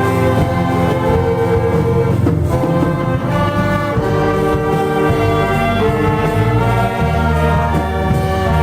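Church orchestra with brass playing a hymn instrumentally, sustained chords moving steadily.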